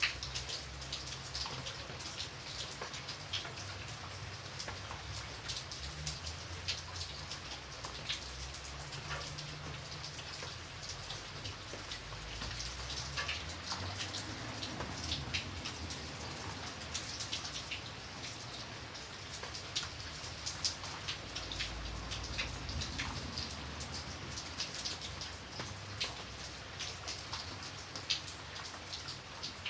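Steady rain, with many separate raindrops ticking on a hard surface over a low rumble.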